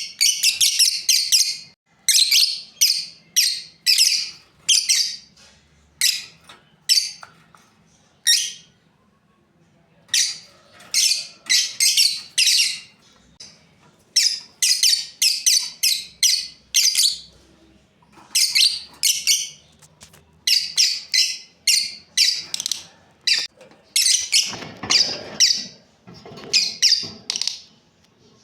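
Lovebirds chirping: short, high-pitched calls in quick runs of several at a time, with brief pauses between runs.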